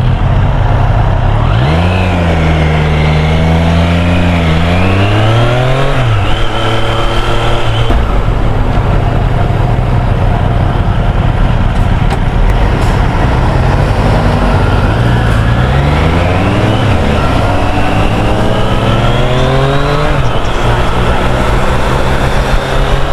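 Triumph Street Triple 765 R's three-cylinder engine accelerating through the gears over wind rush. There are two spells of acceleration, one about a second in and another from about fourteen seconds. In each, the pitch climbs and then drops sharply at each upshift.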